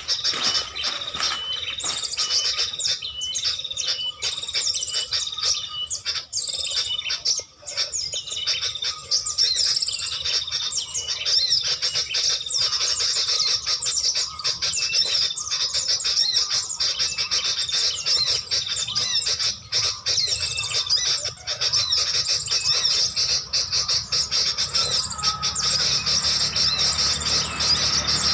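Small birds chirping and twittering without pause, many quick high calls overlapping.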